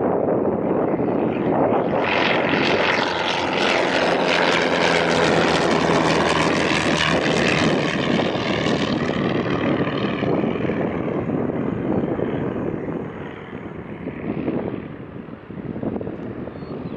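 Propeller airplane engine running loud as the aircraft passes close by. The sound peaks in the first half and fades away over the last few seconds.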